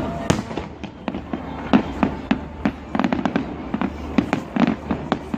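Fireworks display: a rapid, irregular string of bangs and crackles from bursting shells, several a second.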